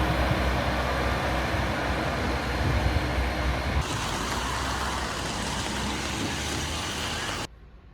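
Train running, heard from inside the carriage: a steady low rumble with rushing noise, which changes tone about halfway through and cuts off abruptly near the end.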